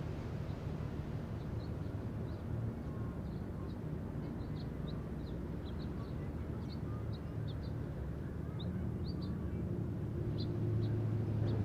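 Harbor ambience: a steady low engine rumble that swells into a stronger hum near the end, under many short, high chirps of small birds.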